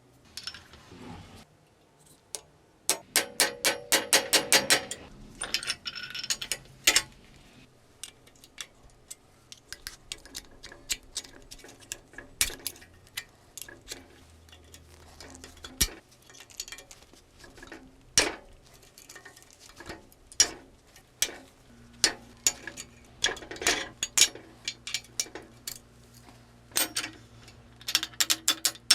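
Sharp metallic clinks and strikes from metalworking in a blacksmith's forge. About three seconds in comes a quick run of about a dozen ringing strikes, followed by scattered single clinks and taps.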